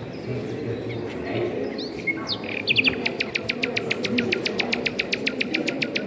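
A songbird singing: a few short chirps, then about halfway through a fast, even trill of high notes, about eight a second, over steady low background noise.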